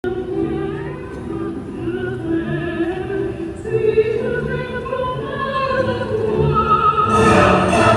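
Operatic singing with vibrato on long held notes, rising to a strong sustained high note about seven seconds in.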